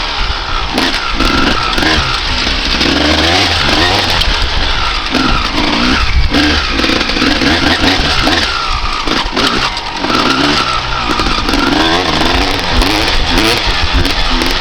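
1995 Honda CR250R's single-cylinder two-stroke engine being ridden hard, its pitch rising and falling over and over as the throttle is opened and shut through the gears.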